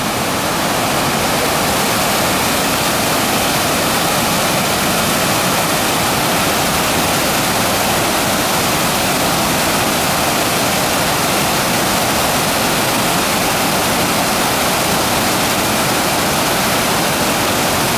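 Waterfall crashing steadily into its pool: a loud, even rush of falling water.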